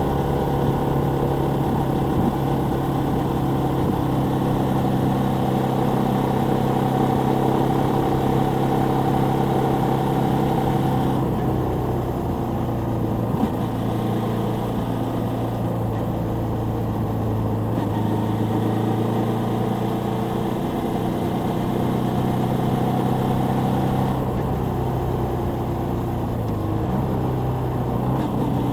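Suzuki Volty 250's air-cooled single-cylinder engine running steadily on the move, its pitch shifting slightly a couple of times.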